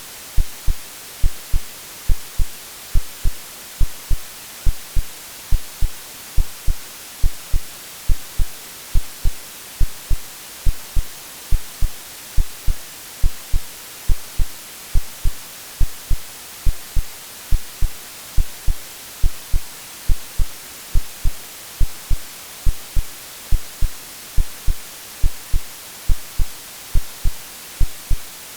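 Synthetic heartbeat: steady paired low thumps at about seventy beats a minute, over a constant white-noise hiss. It is a womb-like sleep sound for calming babies.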